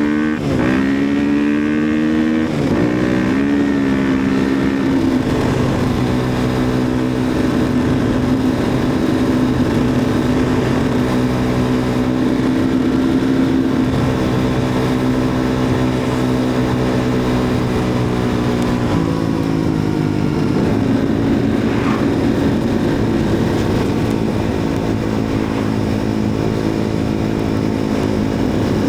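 Enduro motorcycle engine running under way: the revs rise and fall for the first few seconds, then hold steady, and drop to a lower pitch about two-thirds of the way through.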